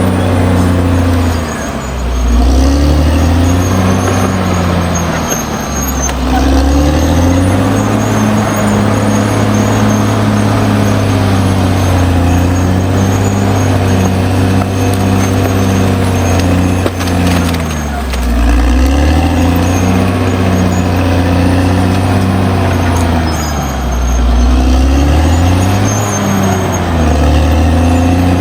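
Caterpillar D6R XL bulldozer's diesel engine running hard, its pitch sagging under load and recovering several times.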